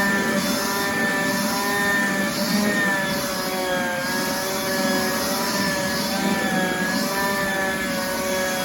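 Leaf blower running steadily, its motor pitch wavering slightly, as it blows snow off hoop-house covers.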